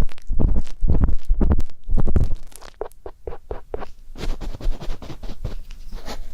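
Ear pick scraping and rubbing close to the microphone. For the first two seconds or so it makes deep rubbing strokes, about two a second, then lighter, crisp scratches and clicks.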